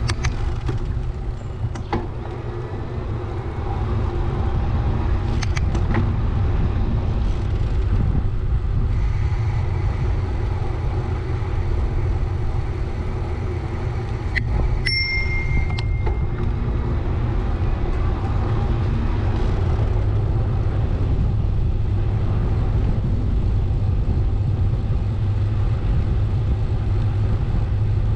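Riding noise picked up by a camera on a moving bicycle: a steady low rumble of wind and road noise, with a few light clicks early and a brief ringing tone about halfway through.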